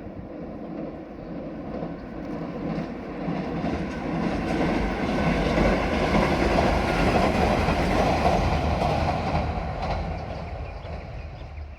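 A JR Shikoku diesel railcar train passing, growing louder to a peak around the middle and then fading away.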